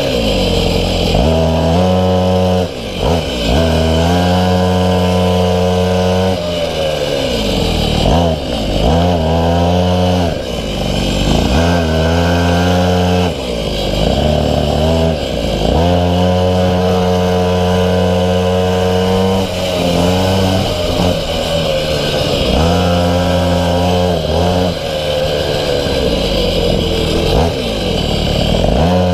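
Small two-stroke minimoto (pocket bike) engine, heard on board, held near full throttle. It drops in pitch each time the throttle is shut for a corner and climbs back as the rider accelerates out, about ten times over.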